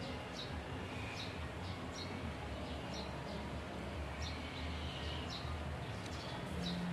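A small bird chirping over and over, short high chirps that slide downward, about two a second and a little irregular, over a steady low background rumble.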